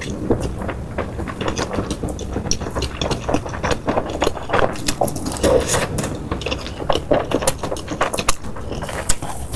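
Close-miked eating sounds: irregular chewing with many short crunches, clicks and wet mouth smacks, over a low steady background rumble.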